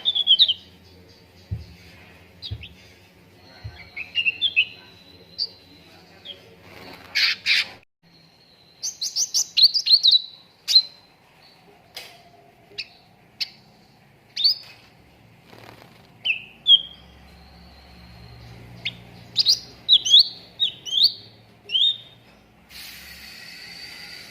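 Cucak ranting songbird singing: a loose run of short chirps, quick falling whistled notes and sharp ticks, with a harsh rasping note near the end. This is a lure or song-tutor recording, made to prompt other birds to sing.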